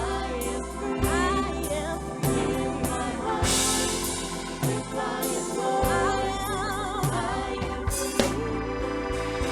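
Live gospel worship music: a band with bass and drums playing under sung, held notes with vibrato.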